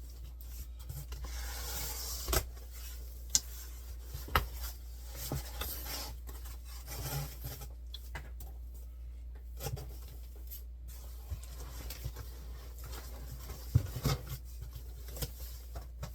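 Cardboard box and foam packing being handled and rubbed while unpacking, with scattered light knocks and clicks and a few sharper taps. A steady low hum sits underneath.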